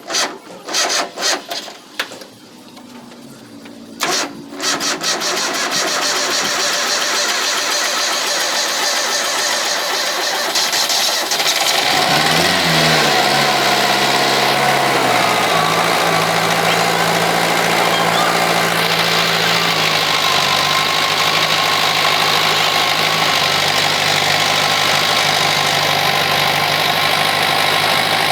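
Diesel engine of an MTZ Belarus tractor being started: a few knocks, then several seconds of steady cranking. About twelve seconds in the engine catches, its pitch wavers briefly, and it settles into a steady idle through the newly fitted silencer.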